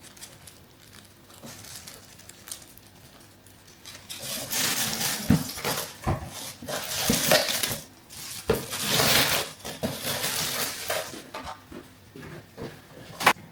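Skincare packaging being unboxed: rustling and crinkling from about four seconds in, with several knocks and clinks as small bottles and jars are handled and set down, and one sharp click near the end.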